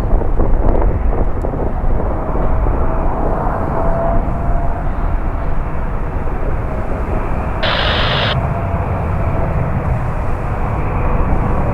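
Jet airliner engines running with a loud, steady rumble, carrying a faint steady whine. A short, higher-pitched burst of hiss cuts in about eight seconds in.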